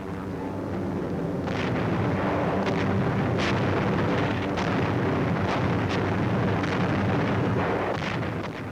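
Battle sound: a dense, continuous rumble of explosions and artillery fire, with sharp cracks scattered through it. It swells up over the first second or so.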